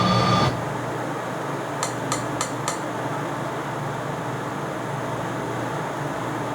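Steady rushing noise aboard a DC-10 jet airliner, with four quick clicks in a row about two seconds in, roughly a third of a second apart. A louder sound with steady tones cuts off half a second in.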